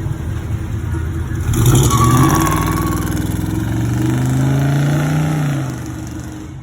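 A car accelerating, its engine note coming in loudly about a second and a half in and climbing steadily in pitch for several seconds before fading away near the end.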